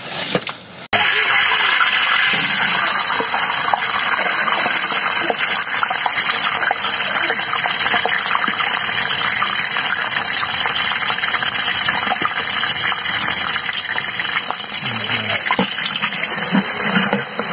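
Sliced onions and green chillies frying in hot oil in a large aluminium cooking pot: a loud, steady sizzle, with a few scrapes of a wooden stirring paddle near the end.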